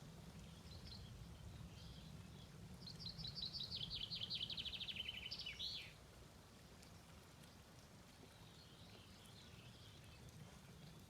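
A bird sings one rapid trill of many quick notes that falls in pitch, ending in a short upswept note, about three seconds in; fainter chirps sound before and after, over a steady low rumble.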